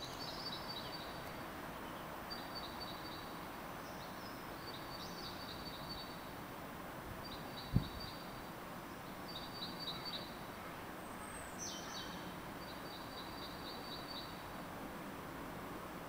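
A songbird singing short, high phrases of quickly repeated notes, one phrase about every two seconds, over steady background noise. A single dull thump comes about eight seconds in.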